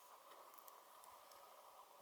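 Near silence: a faint steady background hum with a few very faint high ticks.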